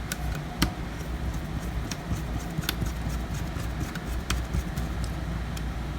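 Scattered small clicks and taps as a 2.5-inch drive is lined up and fitted into a laptop's drive bay, over a steady low background hum.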